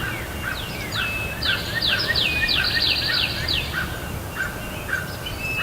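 Birds calling in the woods: a fast run of about eight high, downward-slurred whistled notes partway in, over lower short calls repeating about twice a second.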